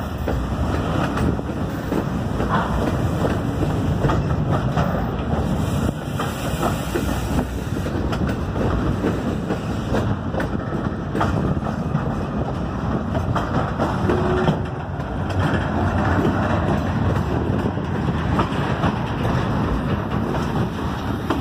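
Circus train cars rolling past on the rails: a steady rumble of wheels on track with scattered clicks and clanks, the coupler knuckles banging as the cars go by.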